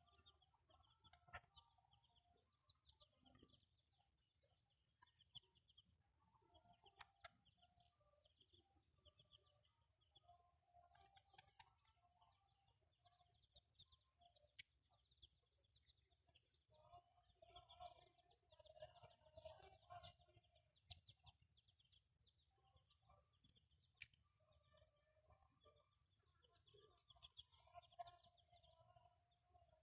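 Chickens clucking quietly, with scattered soft calls throughout that grow busier about halfway through and again near the end, and a few light ticks.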